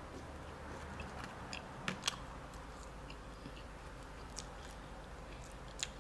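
Close-miked eating sounds: quiet chewing with small wet mouth clicks, sharpest twice about two seconds in and once near the end.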